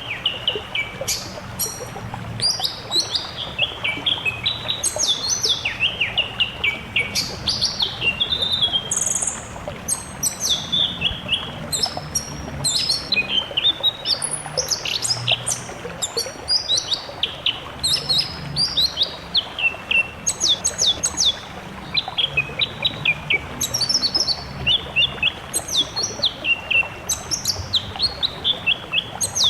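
Songbirds singing in a recorded masteran song mix: rapid runs of high chirps and quick falling notes in phrases with short pauses, over a steady hiss.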